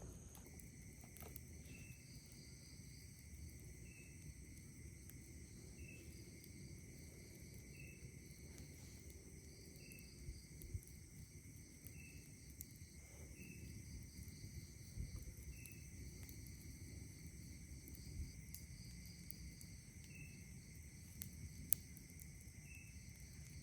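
Night insects trilling steadily at a high pitch, with a short chirp repeating about every two seconds. A campfire crackles faintly underneath, with a few sharp pops; the loudest pop comes near the end.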